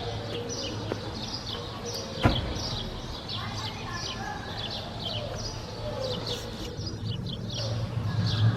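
Many small birds chirping over and over in short, falling notes, over a steady low hum. There is one sharp knock about two seconds in, and a low rumble grows louder near the end.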